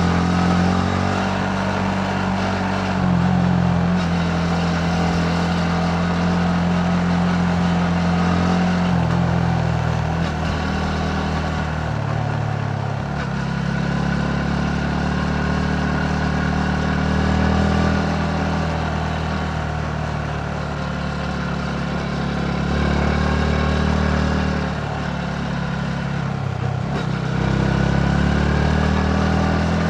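Yamaha MT-15's single-cylinder engine heard from the rider's seat while riding. The revs rise and fall with the throttle: several times the pitch drops away and then climbs again.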